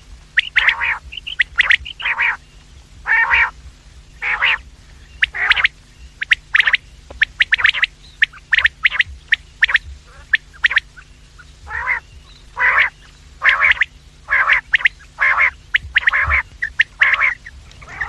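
Quail calling over and over: short, harsh, loud calls, with a run of quick clicky notes in the middle and a brief pause before the calls resume.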